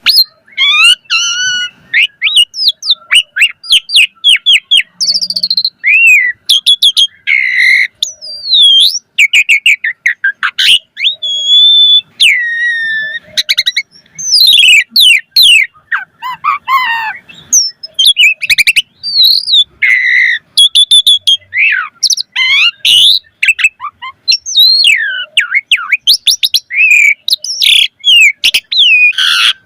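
Asian pied starling singing a fast, varied song of whistles, gliding notes and rapid trills, packed with mimicked calls of other birds.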